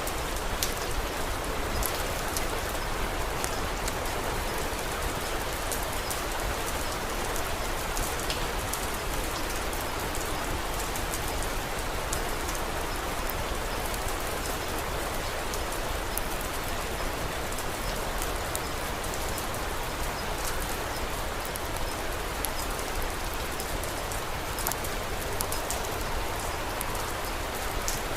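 Steady rain, an even hiss, with scattered faint sharp clicks throughout.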